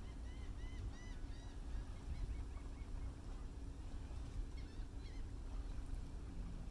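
A bird calling: a quick series of short rising-and-falling notes, about three a second, then a few fainter notes near the end, over a low steady rumble.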